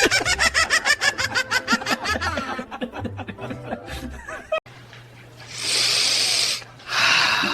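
Long, rapid laughter, ha-ha-ha at several beats a second, over a soft music beat. It stops suddenly about four and a half seconds in, and two bursts of hiss follow.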